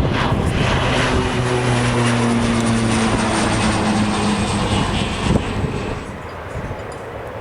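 Airplane engines passing close: loud, steady engine noise with a few low hums and a thin high whine that slides slowly down in pitch, fading about six seconds in.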